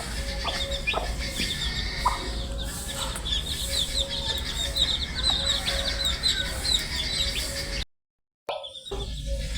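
A brood of baby chicks peeping, many quick high chirps overlapping continuously over a low steady hum. About eight seconds in, the sound cuts out for half a second, then the peeping starts again.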